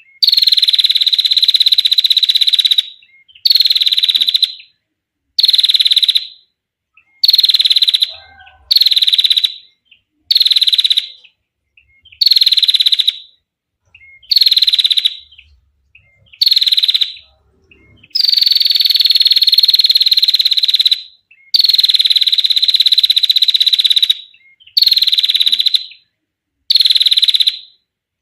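Female prinia (prenjak) giving its rapid buzzing trill, known as 'ngetir', repeated over a dozen times. The calls last from under a second to about three seconds, each dipping slightly in pitch at its start, with short silent gaps between them.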